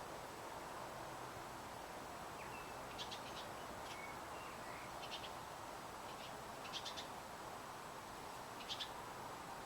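Short, high bird chirps, several in quick pairs, every two seconds or so, with a few faint thin whistles between them, over a steady hiss.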